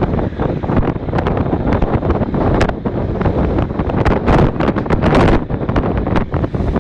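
Strong wind buffeting the microphone out on the sea, loud and gusting, with many short sharp knocks or splashes through it.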